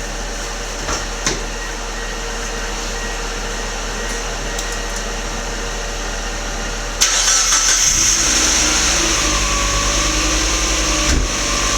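Mazdaspeed MX-5's turbocharged 1.8-litre four-cylinder engine on its first start after an Evo3 16G turbo upgrade. A steady hum and a couple of clicks come first. About seven seconds in, cranking starts with a sudden jump in level, and within about a second the engine catches and settles into an even idle.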